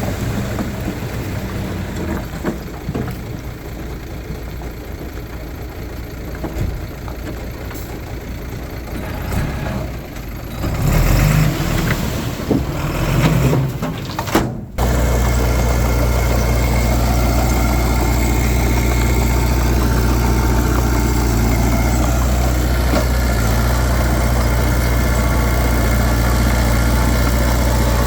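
Heavy diesel earthmoving machinery running: the engine works harder with louder low rumbles partway through, then breaks off abruptly and gives way to a louder, very steady low engine hum.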